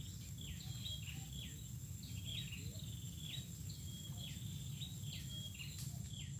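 A bird calling over and over: short whistled notes that fall in pitch, about two a second, some starting on a brief held tone. Beneath it runs a steady low rumble.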